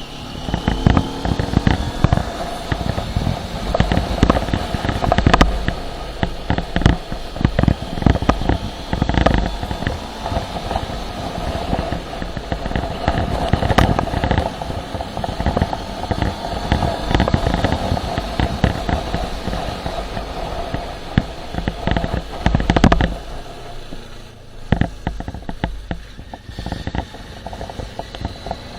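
Motorcycle running on the move, with wind buffeting the microphone in dense crackling gusts over the engine.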